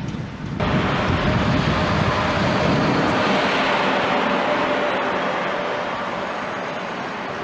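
DB Class 103 electric locomotive and its train moving close past along the platform: a loud, steady rush and rumble of the train with a steady hum over it. It starts abruptly about half a second in and eases slightly near the end.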